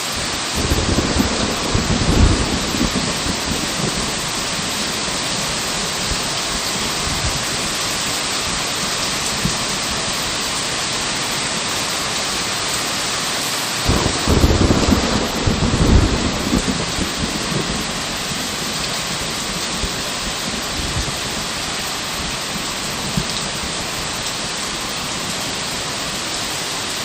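Heavy rain falling steadily, with two rolls of thunder rumbling low beneath it, one at the start and another from about 14 to 17 seconds in.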